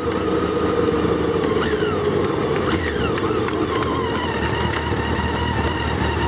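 Motor vehicle engine running, with a few quick rises and falls in pitch in the first half before settling into a steady drone.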